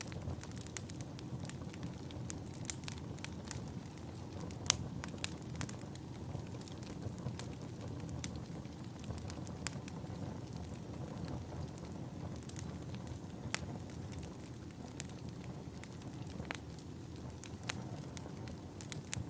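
Wood fire burning in a fireplace: a steady low rumble of flames with irregular sharp crackles and pops, one louder pop about five seconds in.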